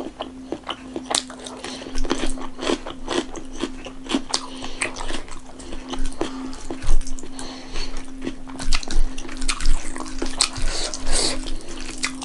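Close-up eating sounds: chewing with wet mouth clicks and lip smacks while daal and rice are mixed by hand, the clicks coming thicker and louder toward the end. A steady low hum runs underneath.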